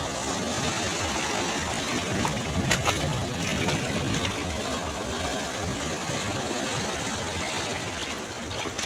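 Sea waves breaking and washing on a shore: a steady wash of noise with a heavy, uneven low end and a few brief crackles about three seconds in.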